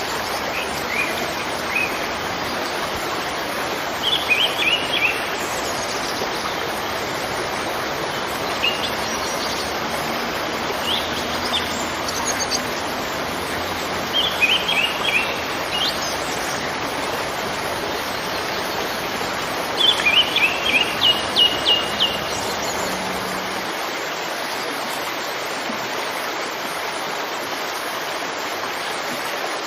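Steady rush of a waterfall, with small birds chirping over it in short bursts of quick notes every few seconds; the longest and loudest run of chirps comes about two-thirds of the way through, and the deep part of the water's rumble thins out soon after.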